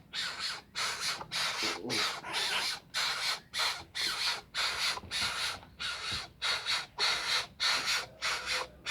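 A bird's repeated hoarse, rasping calls, about two to three a second in an even rhythm.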